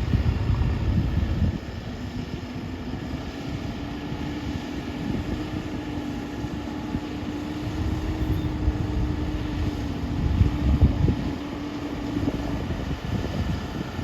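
Diesel engine of a JCB 3DX Xtra backhoe loader running while the machine works, with a steady hum that rises a little mid-way and fades near the end. The low rumble surges louder about ten seconds in.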